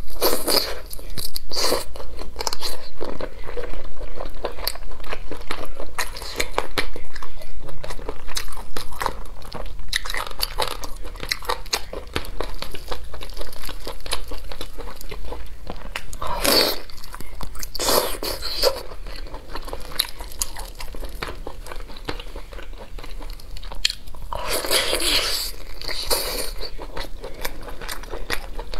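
Close-miked biting and chewing of teriyaki-glazed chicken legs: a dense run of small wet, sticky mouth clicks, with louder bites a little past halfway and again near the end.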